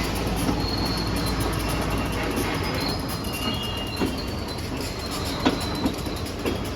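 Freight train rolling slowly past on steel rails, with thin, intermittent wheel squeal and a few sharp clunks over rail joints in the second half.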